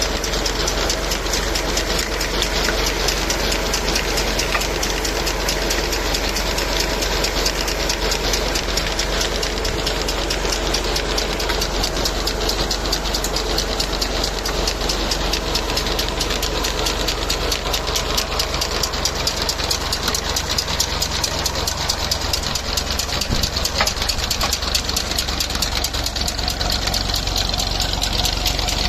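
Tractor diesel engine running steadily with a fast, even clatter, powering a new tubewell pump.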